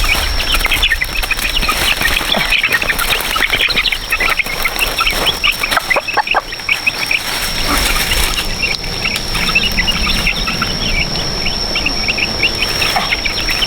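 Farm animals calling: a dense run of short, high-pitched cries over a steady high tone.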